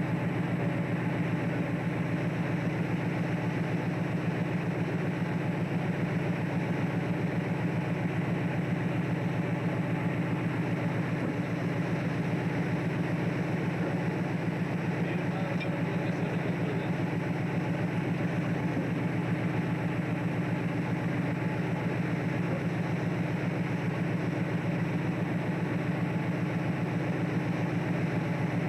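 Fishing boat's engine running steadily, a constant low drone with a hum of machinery noise over it, heard on board.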